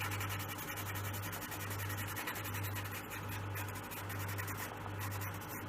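Dry pastel being rubbed into paper in quick repeated strokes, a steady scratchy rasp as the pigment is worked into the sheet.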